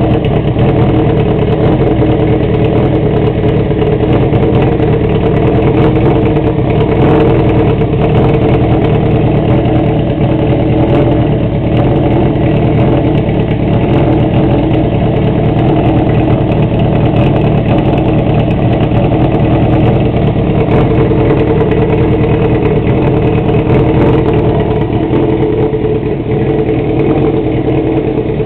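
Honda CB400 Super Four's 400 cc inline-four running steadily at idle through a straight-through aftermarket exhaust, loud and even.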